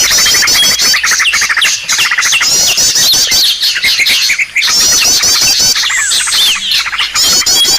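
Small-bird lure recording: several small birds calling at once, with quick runs of very high chirps, repeated falling whistled notes and fast rattling trills, dense and unbroken.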